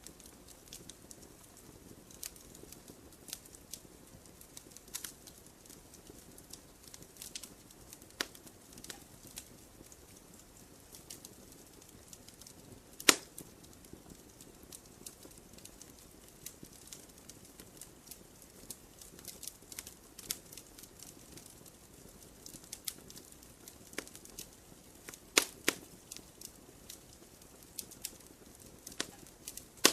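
Wood campfire crackling. Irregular sharp pops and snaps of burning wood sound over a soft, steady hiss of the flames. A loud pop comes about 13 seconds in and a close pair of pops comes near 25 seconds.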